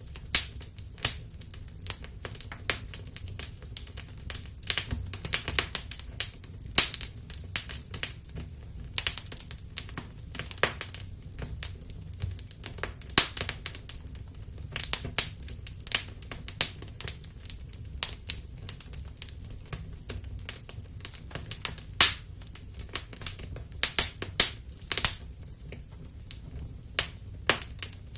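Wood fire burning in a fireplace, crackling and popping in irregular sharp snaps over a soft low rumble of the flames.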